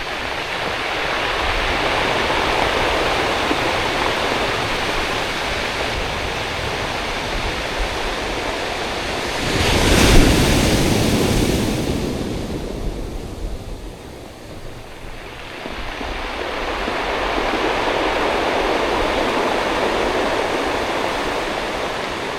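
Waves surging up a rocky beach and drawing back, the water rushing over and tumbling the stones. A wave breaks with a sharp, louder crash about ten seconds in; the sound eases off, then a second surge builds.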